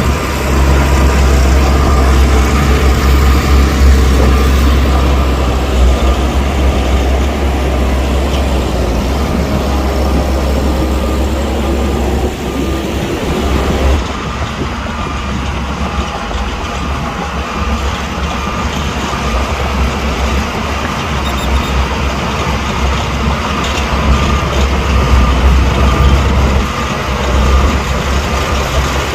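Heavy diesel earthmoving machinery at work, its engine running with a deep steady rumble. It is louder through the first dozen seconds and again near the end.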